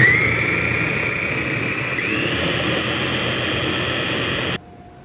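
GANIZA electric food chopper's motor running with its blades chopping vegetables for salsa. Its whine rises as it spins up, dips and climbs again briefly about two seconds in, and cuts off suddenly near the end.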